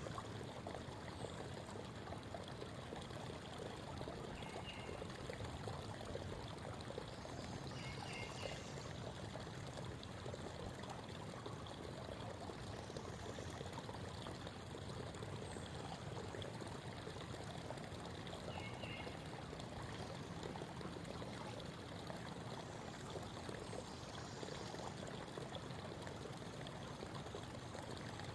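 A creek babbling steadily, with three brief high bird chirps scattered through.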